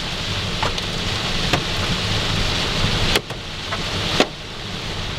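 Heavy rain and hail pelting a car, with single hailstones striking the body or glass in sharp cracks; the two loudest come about three and four seconds in. A low road drone runs underneath.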